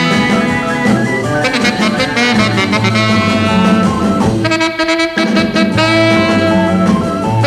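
Late-1950s instrumental rock and roll record with a saxophone playing the lead line over a repeating bass figure and drums.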